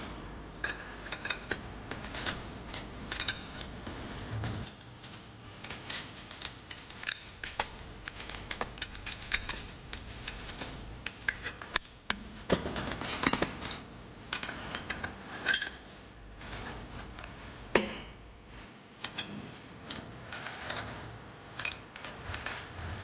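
Irregular light clicks, taps and scrapes of small hard objects being handled.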